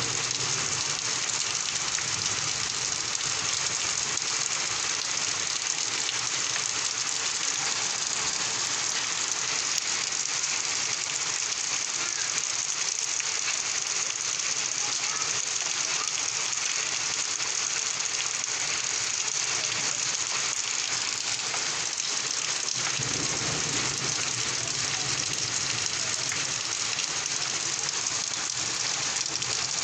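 Rain pouring steadily, a dense even hiss of countless drops. A deeper rushing layer drops away early on and comes back about two-thirds of the way through.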